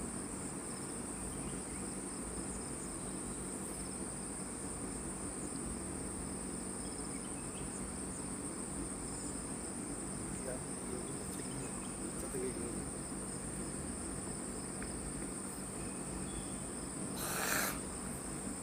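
Steady, high-pitched drone of an insect chorus, cricket-like, running without a break. About a second before the end, a short burst of rushing noise rises over it.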